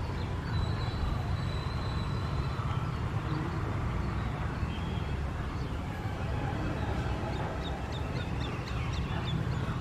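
Birds calling over a steady low outdoor rumble, with a quick series of short high chirps near the end.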